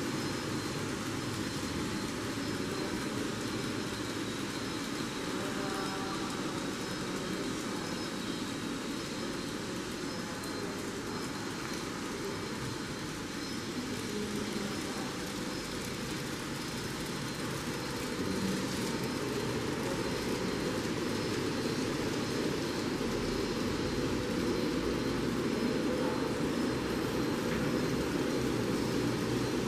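Steady background noise around an N-scale model railway layout: an even hiss and hum with no distinct events, a little louder from about two-thirds of the way through.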